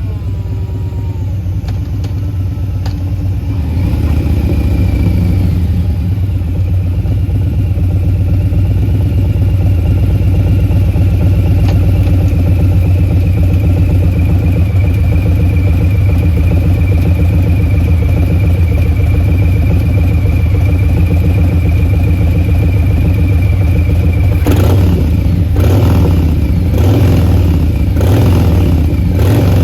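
A Harley-Davidson Milwaukee-Eight V-twin running through a Bassani Short Ripper 2-into-1 exhaust. It gets louder about four seconds in and then holds steady, with several short bursts of extra loudness near the end.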